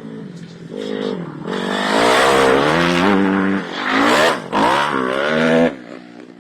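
Motocross dirt bike engine revving, its pitch climbing and dropping several times under changing throttle; loudest through the middle, then falling away near the end.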